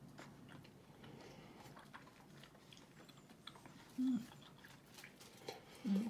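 Faint chewing and mouth sounds of someone eating grilled chicken skewers, with scattered small clicks. There are two short, louder vocal sounds about four and six seconds in.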